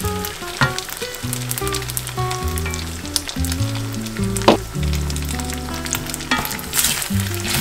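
Fried rice and beef brisket sizzling in a pan on high heat while a wooden spatula stirs and scrapes through it, with many small clicks. Bean sprouts go in partway through, and there is one sharp knock a little after the middle.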